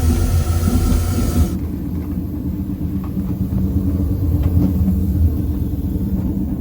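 Train running along the track: a steady low rumble. A higher hiss on top of it drops away abruptly about a second and a half in, and a few faint clicks follow.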